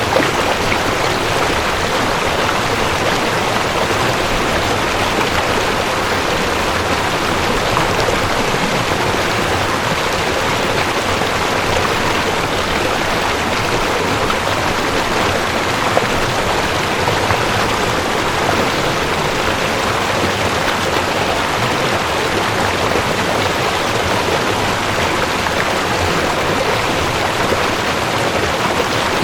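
Cold mountain stream rushing over rocks: a steady, even rush of water.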